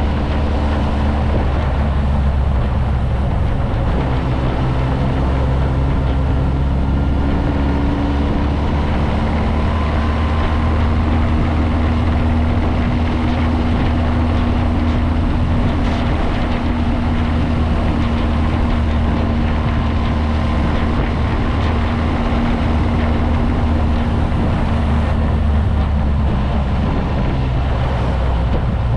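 Motorcycle engine running steadily under way, with wind and road noise. The engine note drifts slightly up and down as the revs change.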